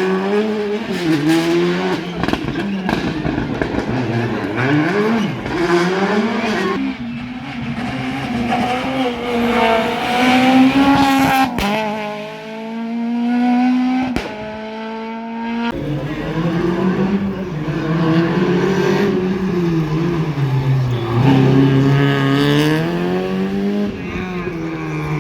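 Rally cars driven flat out on a special stage, their engines revving up and falling back again and again through gear changes. The sound switches abruptly from one car to the next several times.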